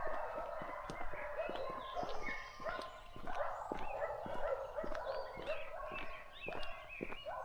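Footsteps on a forest path, a few steps a second, under a dense, continuous chorus of many overlapping animal calls.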